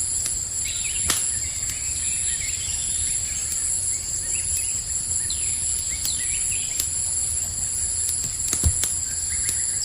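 Campfire crackling with a few sharp pops, over a steady high-pitched cricket chorus and a low rumble from the flames. Short falling chirps come and go through it.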